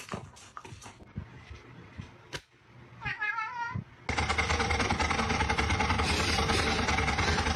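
A cat gives one wavering meow about three seconds in, after a few scattered clicks. About a second later a loud, fast, steady rattling noise starts and runs until it cuts off suddenly near the end.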